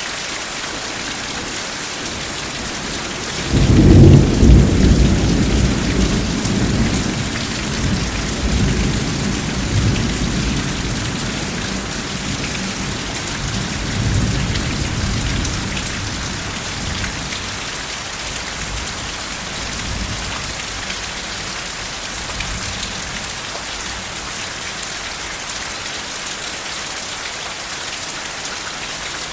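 Steady rain falling, with a clap of thunder about three and a half seconds in that starts suddenly and rumbles away slowly over the next ten seconds or so.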